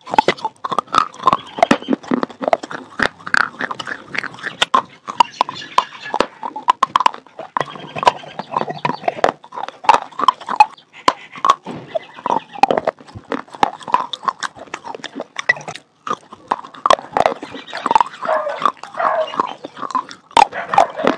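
Close-miked biting and chewing of red slate, a wet crunching with a dense run of crackles and mouth clicks throughout.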